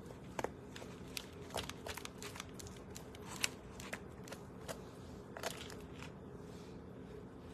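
Scattered soft clicks and crinkles of hands pulling cooked chicken meat off the bone, irregular and faint, over a low steady hum.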